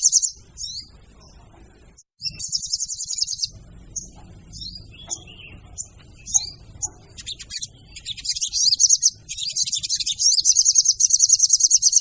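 Female sogon's song used as a lure call: high, rapid chattering trills in bursts with short chirps between, building to a long unbroken trill near the end.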